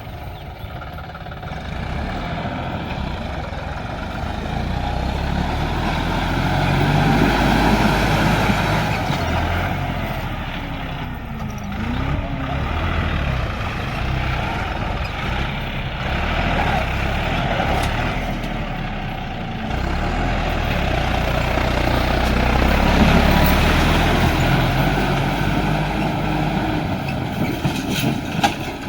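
John Deere 5310 tractor's diesel engine running hard, its note rising and falling, swelling louder twice.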